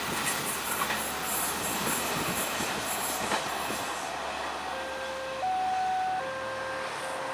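Train running past on the rails, its wheels clicking over the track joints, the noise dying away about four seconds in. Then a series of steady electronic tones stepping between a few pitches.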